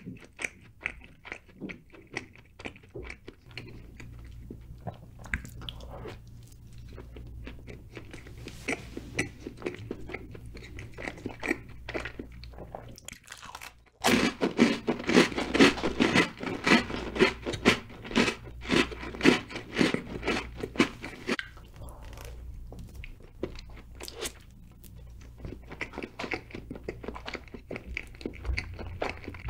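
Close-miked mukbang eating: a man chewing chocolate cake with soft, wet mouth clicks. About halfway through a louder, denser run of crunching starts suddenly and lasts several seconds before it drops back to quieter chewing.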